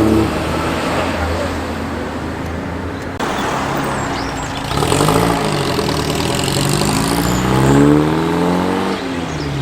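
A car engine pulling away and accelerating, its note rising for about three seconds before dropping back near the end as the driver changes gear, then rising again. In the first seconds another engine note falls away as a car passes.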